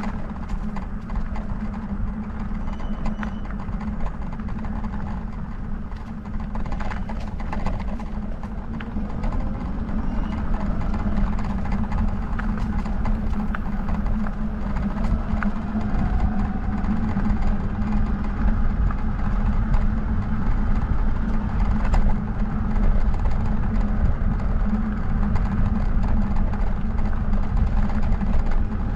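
Steady wind and rolling noise from a bike ride along a road, with scattered small clicks and rattles from the bike.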